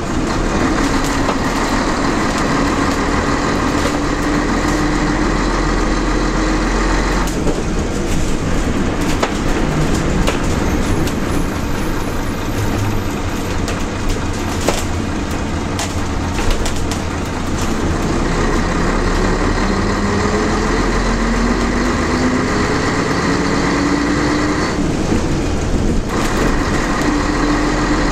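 Scania L113CLB bus under way with its diesel engine running, a steady rumble and rattle. The engine's pitch drifts down, then climbs steadily from about 18 s to 24 s as the bus pulls through its manual gearbox.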